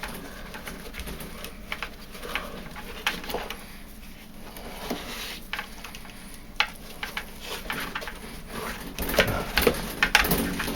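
Plastic pump and pump-housing parts of a Bosch tumble dryer being handled and cleaned by hand: irregular scraping, rubbing and small clicks, busier near the end.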